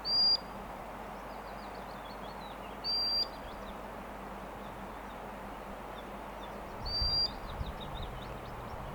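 A bird calls three times with a short whistled note, each a quick upward slur held briefly, three to four seconds apart. Softer chirps come in between, over a steady outdoor hiss.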